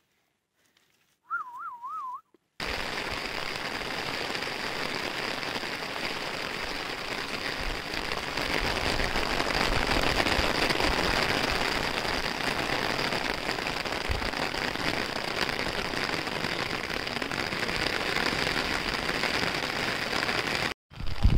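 A short warbling whistle, then a steady hiss of rain that grows louder in the middle and cuts off suddenly near the end.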